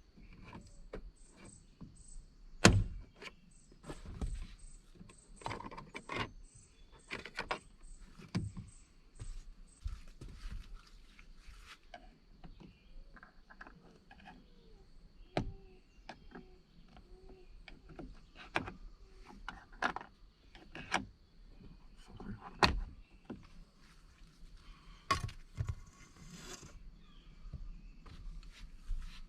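Scattered clicks, taps and clunks of hands-on work on a pickup truck, with a sharp knock about three seconds in and another near the end. A faint steady high tone runs underneath.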